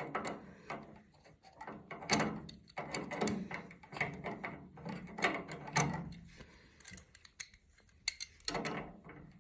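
Adjustable crescent wrench working the metal fittings on a gas water heater's control valve, giving irregular clicks, ticks and scrapes of metal on metal.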